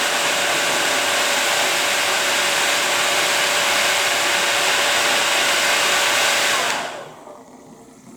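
Hairdryer blowing steadily with a faint constant whine under the rush of air, then switched off about seven seconds in, leaving much quieter sound.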